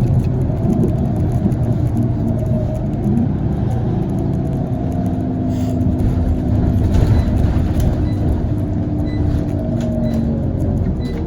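Scania CL94UB OmniLink city bus under way, its diesel engine and ZF automatic gearbox running with a steady low rumble and a gearbox whine. The whine drops in pitch near the end as the bus slows.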